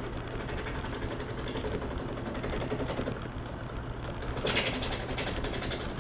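Metal lathe running steadily as it turns down the diameter of a threaded pipe part. A brief, louder hiss comes about four and a half seconds in as the cut bites harder.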